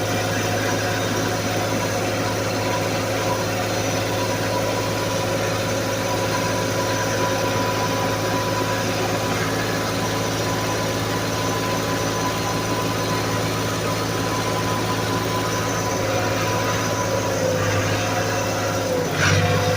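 Tractor engine running steadily at a constant speed, a low hum with a steady whine over it. Near the end the pitch dips briefly and comes back up, and the sound gets a little louder for a moment.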